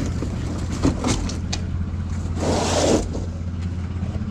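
Car engine idling steadily with a low hum, a few light clicks and knocks in the first second or so, and a short burst of noise about two and a half seconds in.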